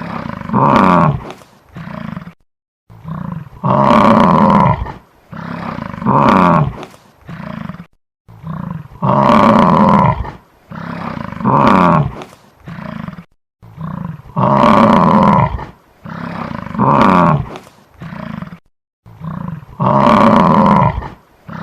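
Buffalo bellowing: a long, loud call followed by a few shorter calls, the same sequence repeating about every five seconds with short silent gaps between.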